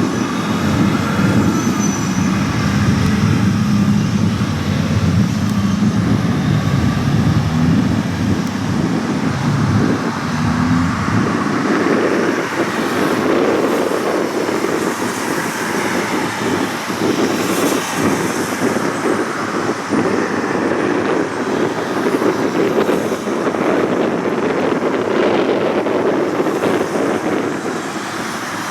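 Steady traffic and engine noise. A heavy low rumble fades out about eleven seconds in, leaving a lighter, even rushing noise.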